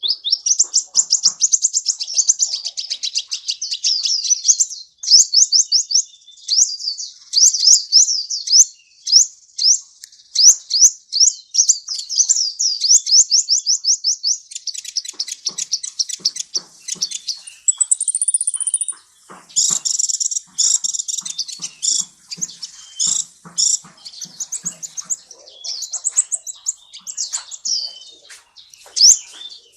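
A sunbird (the bird Indonesian bird-keepers call a "kolibri") singing a high, fast song. It opens with long runs of quick sweeping notes, then breaks into a more varied chattering stretch with a brief higher whistle about midway.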